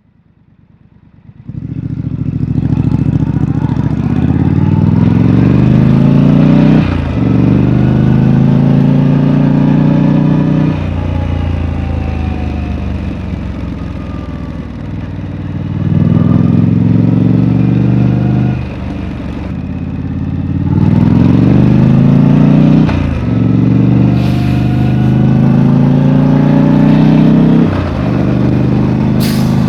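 Triumph Street Scrambler's 900 cc parallel-twin engine through its stock exhaust, ridden hard: it comes in about a second and a half in, and its note climbs under acceleration and drops sharply at each upshift, about five times, with a couple of steadier, quieter cruising stretches between pulls.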